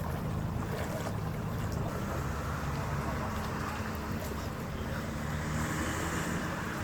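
Ferry underway: its engines run in a steady low drone while water rushes along the hull, with wind buffeting the microphone.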